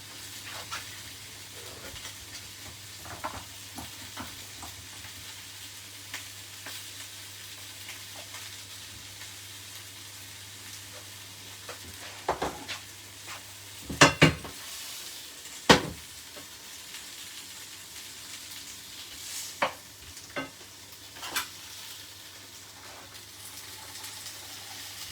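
Chicken wings sizzling steadily as they fry in a hot pot, broken by a few sharp knocks and clinks, the loudest two about a second and a half apart just past the middle.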